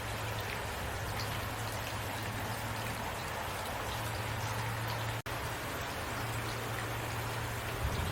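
Heavy rain falling steadily, an even hiss of many drops with scattered individual drop ticks, over a low hum that comes and goes. The sound cuts out for an instant about five seconds in.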